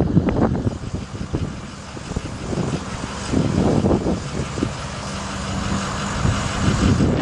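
Ford F750 bucket truck's engine running, a steady low rumble.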